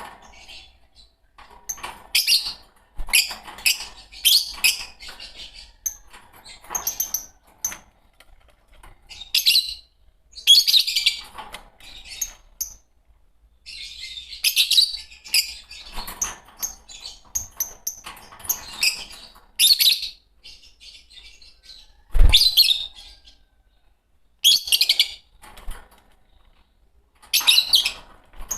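A pair of Fischer's lovebirds chirping in short, shrill bursts that come in clusters every couple of seconds with brief pauses between. A single sharp knock about three-quarters of the way through.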